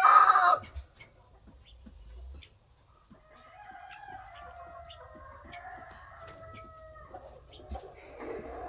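Roosters crowing: a loud crow cuts off about half a second in, then quieter, drawn-out crows from other roosters in the flock follow from about three seconds in and again near the end.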